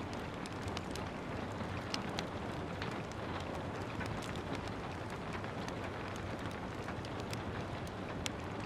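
Steady rain with a wood fire crackling over it: irregular sharp pops and snaps scattered through, a couple of louder ones about two seconds in and near the end.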